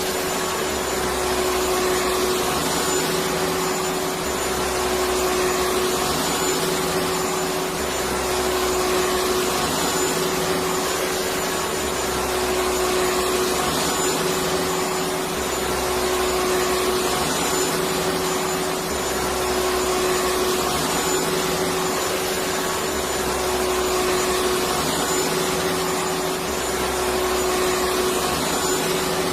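Electric vacuum cleaner running steadily, a continuous rushing whoosh with a constant motor whine. A faint low throb swells and fades about every two seconds.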